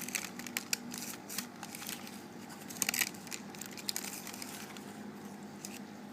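Aquarium running with a steady low hum and a wash of water, under irregular sharp clicks and ticks, a quick cluster of them about three seconds in.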